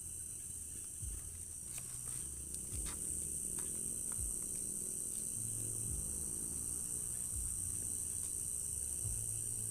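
Steady high-pitched chirring of a night cricket chorus. Under it run low bass notes of distant music that change pitch every second or so, and there are a few faint clicks about two to four seconds in.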